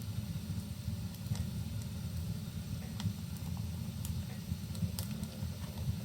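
Wood fire in a fireplace crackling, with a few sharp pops scattered over a steady low rumble, and rain falling faintly behind it.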